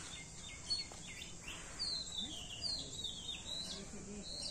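Small birds chirping, a quick run of short high twittering calls bunched around the middle, over a soft steady outdoor hiss.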